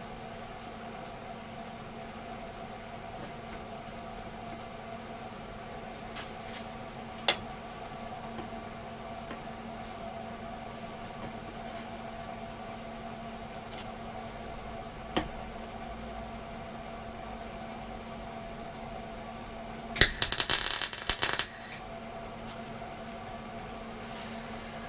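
MIG welder tack-welding a repair section onto a Land Rover door: a burst of welding crackle lasting about a second and a half near the end. A steady electrical hum runs underneath, broken by two sharp clicks earlier on.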